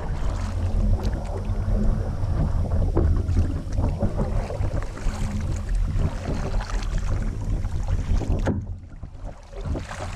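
A kayak moving on open water: a steady low rumble of wind on the microphone mixed with water noise, easing off near the end.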